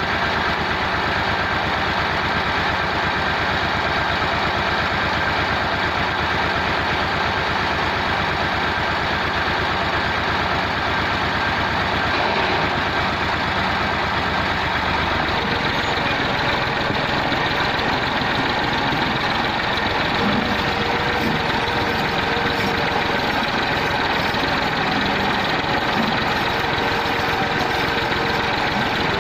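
Massey Ferguson MF 260 tractor's diesel engine running steadily; its note changes about halfway through.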